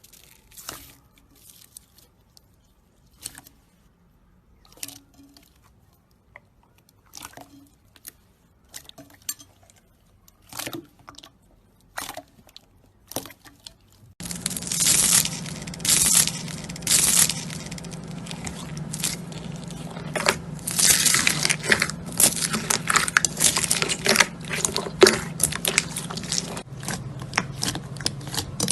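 Slime being squeezed and pressed by hand: sparse, soft sticky pops and squelches, then from about halfway a louder, dense run of crackling and crunching over a steady low hum.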